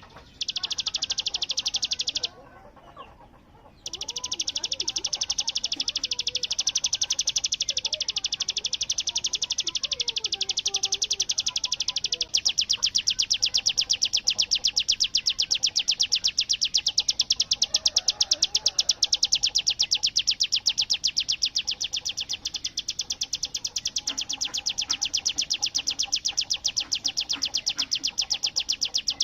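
Hill prinia (ciblek gunung) singing its 'bren' song, a long, very fast machine-gun-like trill of high, even notes. It breaks off about two seconds in, resumes about four seconds in and runs on unbroken.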